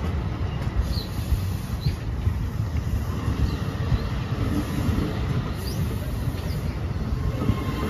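NJ Transit Multilevel coaches rolling past as the train departs, a steady low rumble of wheels on the rails.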